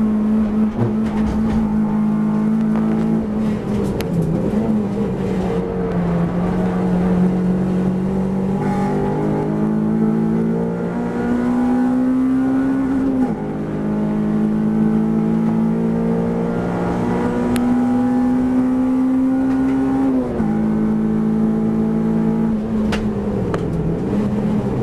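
Honda Civic race car's four-cylinder engine at high revs, heard from inside the cabin under racing load. The note climbs steadily and falls sharply twice, about 13 and 20 seconds in, at gear changes. It dips again near the end as the car comes off the throttle.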